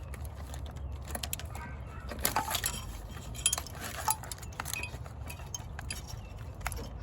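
Scattered light clicks and clinks of small parts and connectors being handled while wiring is stripped off an engine, over a low steady hum.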